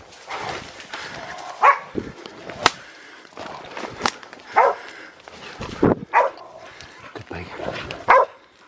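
Pig-hunting dogs barking at a bailed wild boar: single sharp barks every second or two, with a few sharp cracks in between.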